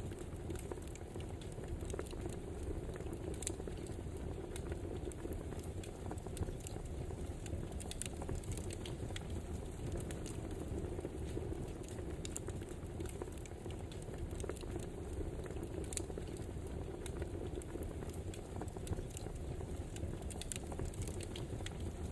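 Crackling wood fire: a steady low rumble of burning logs with scattered sharp crackles and pops, irregularly spaced.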